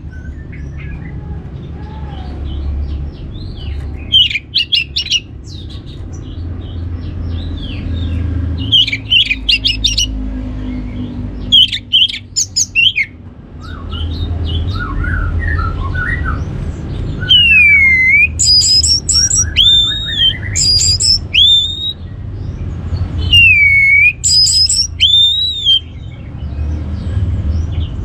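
Orange-headed thrush singing: short bursts of rapid, varied notes, then from just past the middle loud curved whistles repeated every second or two, over a steady low background hum.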